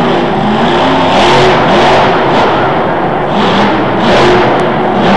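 Monster truck engine revving hard in repeated surges, rising and falling in pitch, during a freestyle run.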